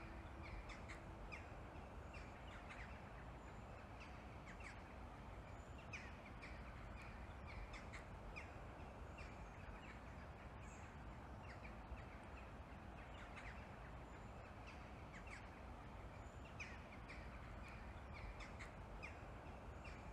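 Faint outdoor background with crows cawing now and then, short calls scattered through a low steady hum.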